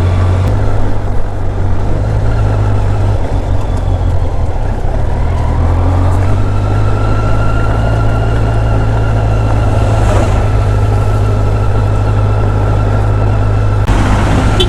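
Kawasaki Z900's inline-four engine running steadily on its stock exhaust while riding in city traffic, a constant low drone with road and traffic noise around it.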